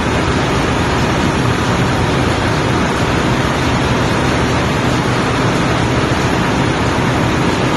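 Loud, steady, unchanging noise of running machinery in a ship's engine room.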